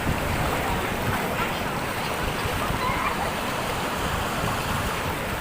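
Ocean surf washing steadily onto the beach, a continuous rushing of breaking waves.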